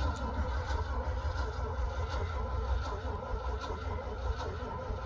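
A 1971 Ford Highboy's engine being cranked over by the starter in below-zero cold, turning over steadily without catching, on a battery that is running down.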